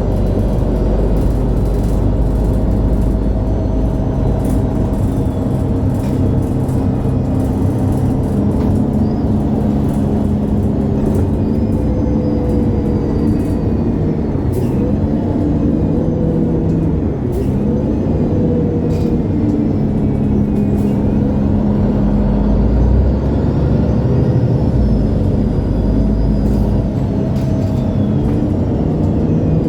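MAN Lion's City G articulated bus diesel engine running under way. Its pitch rises and falls several times as the bus accelerates and shifts gear, over a steady low rumble, with scattered short clicks and rattles.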